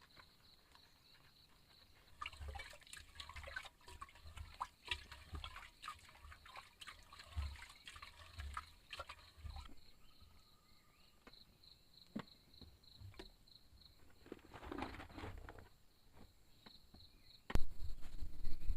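Water dripping and trickling in irregular spurts, over a steady high insect trill. A louder sound starts suddenly near the end.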